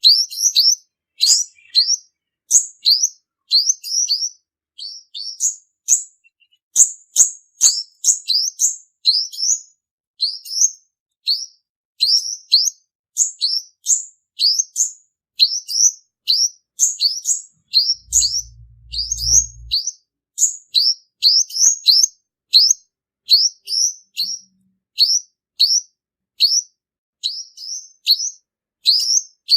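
Male olive-backed sunbird singing a lure song: a long, unbroken run of short, high, down-slurred notes, a few a second. A brief low hum comes in about two-thirds of the way through.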